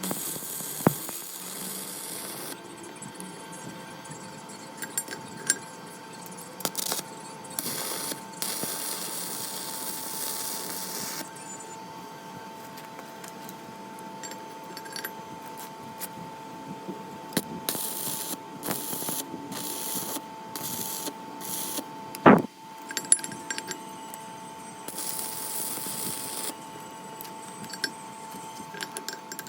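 Metal workshop sounds: tools and metal parts clinking and knocking, with a loud knock about 22 seconds in. Several stretches of hissing lasting one to three seconds come and go over a steady hum.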